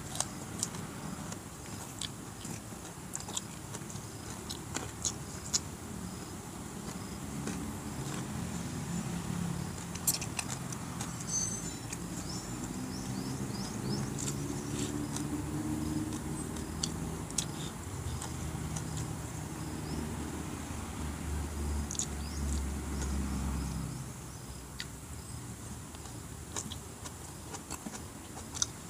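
Close-up chewing and lip smacking of someone eating with his hands, heard as scattered short clicks and wet mouth sounds. A motor vehicle engine hums in the background from about seven seconds in, then fades out at about twenty-four seconds.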